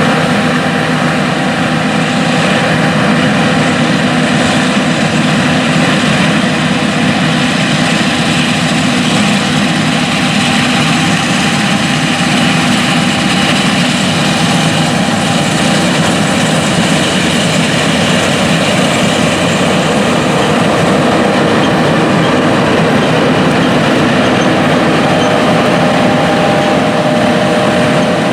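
Big John Deere farm machinery running steadily in the field: diesel engine drone with a steady mechanical whine over it. Another whining tone comes in near the end.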